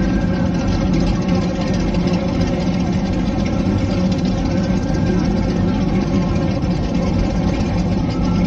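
Car engines running steadily at low revs, an even drone with no revving.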